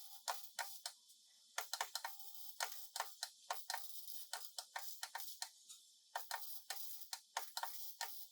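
An irregular run of sharp taps, several a second, over a faint hiss, with a short pause about a second in.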